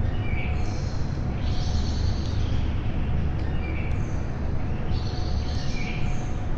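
Wild birds singing: short high chirping phrases recurring every couple of seconds, over a steady low rumble.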